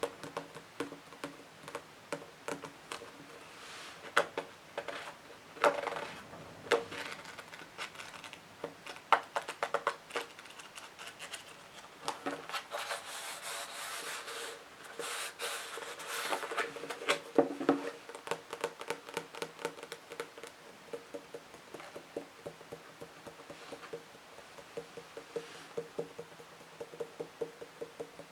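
Fingers tapping and scratching on books: runs of quick taps, with a longer stretch of scratching around the middle.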